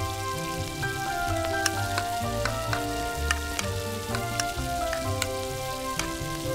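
Chopped tomatoes and onions sizzling and crackling in a miniature iron kadai as they are stirred with a tiny spatula, with irregular sharp pops. Background music with a melody and bass line plays over it.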